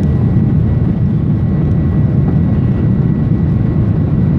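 Ryanair Boeing 737 jet engines running at takeoff thrust: a steady, loud roar with a thin, steady high whine above it.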